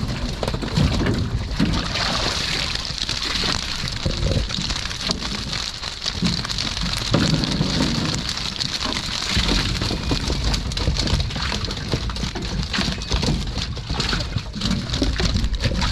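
Water splashing and streaming off a cage fish trap as it is hauled out of the water, a dense, continuous patter of drops and splashes.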